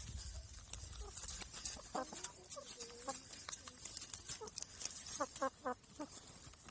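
Hens clucking: a few short calls about two seconds in and a quick run of three or four clucks near the end, over a light patter of small ticks.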